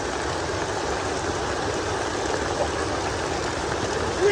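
Rain falling steadily, an even rushing hiss of water, with a brief high-pitched cry right at the end.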